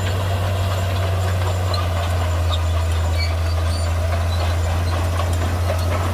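Shantui crawler bulldozer's diesel engine running steadily with a deep, even drone.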